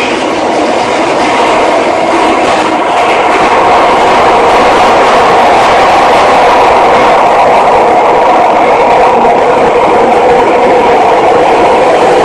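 Toei 6300 series subway train running: continuous rail running noise with steady tones through it, growing a little louder over the first few seconds and then holding level.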